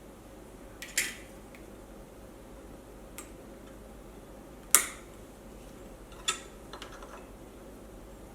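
A few sharp clicks and knocks of small hard objects or tools being handled, four clear ones spread out, the loudest about halfway through, with faint ticks near the end.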